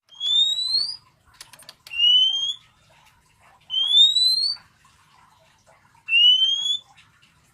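Oriental magpie-robin (kacer) calling: four long, clear whistles, each rising in pitch, about two seconds apart. This is the kacer's calling note, used to make another kacer answer.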